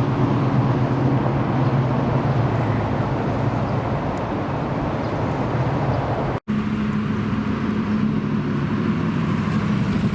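American muscle car engine idling with a steady deep rumble. An abrupt cut about six seconds in is followed by a steady idle on a slightly higher note.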